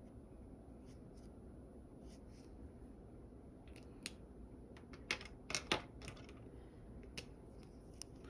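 Sketching on paper: a handful of short, sharp scratchy strokes and taps of a drawing tool, the loudest cluster about five seconds in, over a faint steady room hiss.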